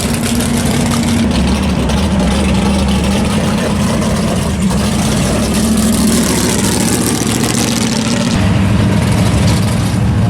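Car engine idling steadily, its low note shifting pitch about eight seconds in.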